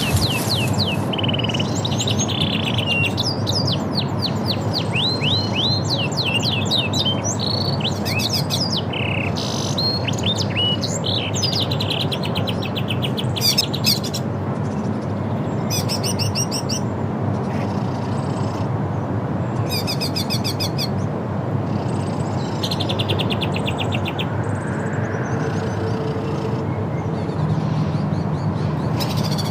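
Small birds chirping and trilling in quick repeated phrases over a steady low background rumble. The chirping thins out in the last several seconds as a low steady hum comes in.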